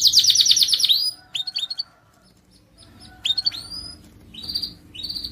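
Canary singing: a fast trill of about a dozen high notes a second that stops about a second in, followed by scattered short upswept chirps with a brief pause in the middle.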